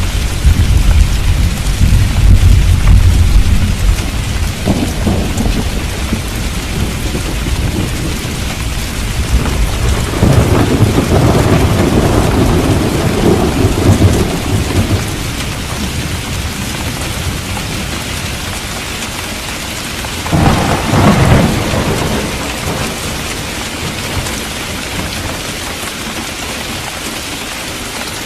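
Steady heavy rain with thunder: a deep rumble fading in the first few seconds, a long rolling peal about ten seconds in, and a sharper, closer crack of thunder about twenty seconds in.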